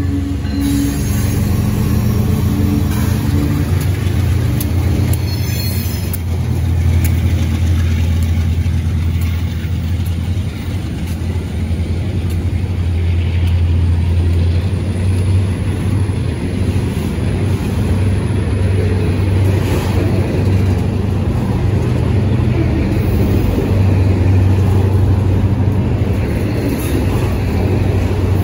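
CSX freight train passing close by. A GE ES44AH diesel locomotive's engine drones in the first few seconds as it goes past, then a long line of autorack freight cars rolls by with a steady, loud rumble of wheels on rail.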